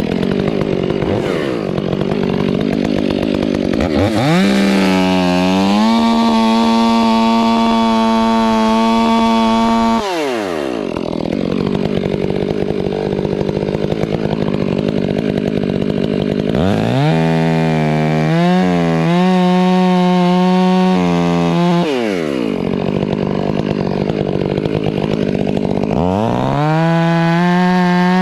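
Two-stroke chainsaw running hard, revved up to a high steady whine three times and dropping back to a lower, rougher note in between.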